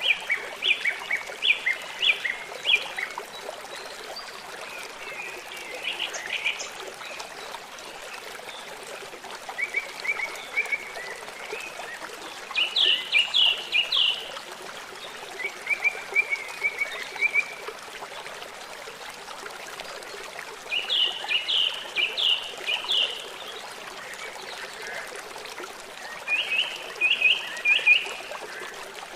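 Songbirds singing short phrases of quick, repeated chirping notes, about seven phrases a few seconds apart, over the steady rush of flowing water from a stream or waterfall.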